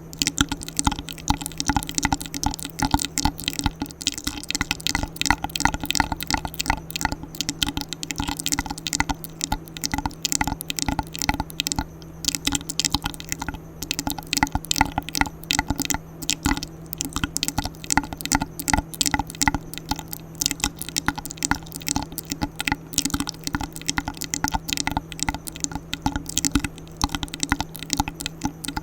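ASMR mouth sounds: a fast, unbroken stream of wet mouth clicks and smacks close to the microphone.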